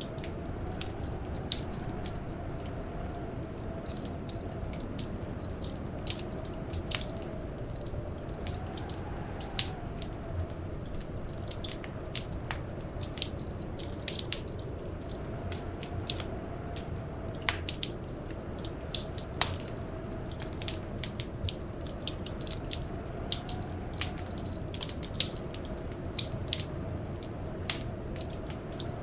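Wood fire crackling in a fireplace, with frequent sharp pops and snaps at irregular intervals over a steady low rumble. A faint wavering wind howl, the blizzard, rises and falls underneath.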